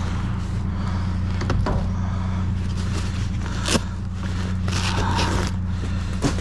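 Truck engine idling steadily, with a few sharp knocks of objects being handled, one about a second and a half in, one near the middle and one near the end.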